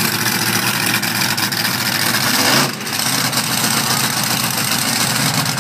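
Monster truck engine running loud and rough, swelling briefly about two and a half seconds in and then easing off.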